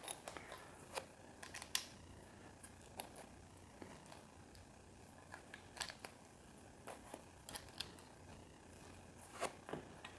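Faint, scattered clicks and light rattles of small plastic LEGO pieces being picked out of a pile and pressed onto the model, a dozen or so separate ticks with short gaps between them.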